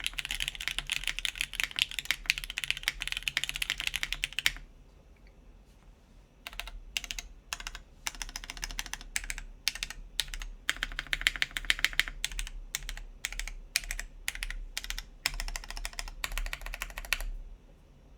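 RAE Aurum mechanical keyboard with lubed Gateron Ink switches, a carbon fiber plate and GMK keycaps being typed on. Fast, continuous typing gives way after about four seconds to a pause of two seconds, then shorter bursts and single keystrokes, stopping shortly before the end.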